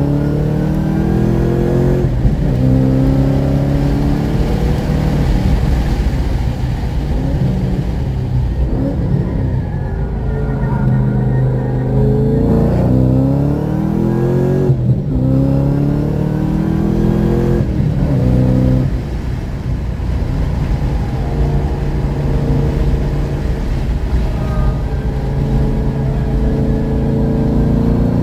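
Turbocharged or supercharged car engine heard from inside the cabin during hard lapping, pulling with a rising pitch that drops back at each gear change. Midway it comes off the throttle briefly under braking for a corner, then accelerates hard again.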